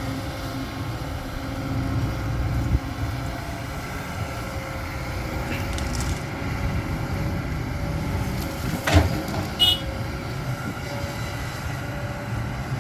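Steady low engine and road rumble of a vehicle driving on a dirt road, with a sharp knock about nine seconds in and a short high beep just after.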